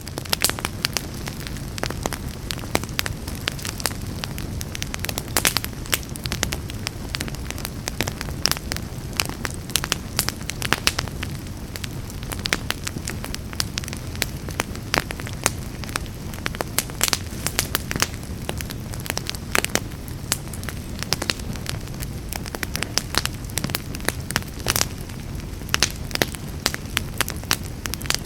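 Fire in a fireplace crackling, with frequent sharp pops and snaps over a steady low rumble of flames.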